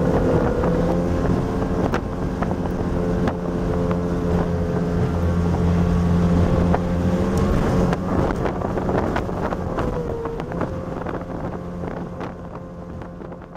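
A P1 Panther speedboat's 250-horsepower Evinrude outboard running steadily at speed, with wind on the microphone and sharp knocks of the hull hitting chop. Its pitch dips briefly about ten seconds in, and the sound fades out near the end.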